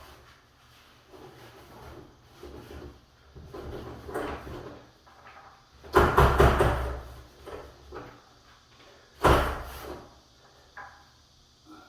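A wooden room door being handled: soft rubbing and scraping, then two loud heavy bumps about six and nine seconds in, with a few lighter knocks after.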